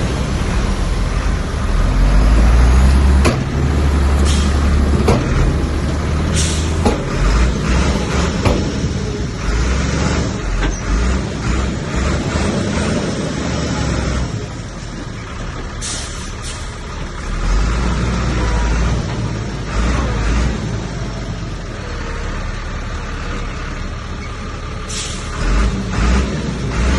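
Heavy diesel earthmoving machinery at work: a low engine rumble that rises and falls with the load, with scattered clanks and three short hisses.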